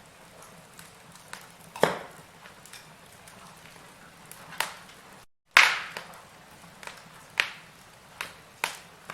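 Firewood burning with irregular crackles and sharp pops over a quiet, even background. The loudest pop comes a little past halfway, and a cluster of pops follows near the end. The sound cuts out completely for a split second just before the loudest pop.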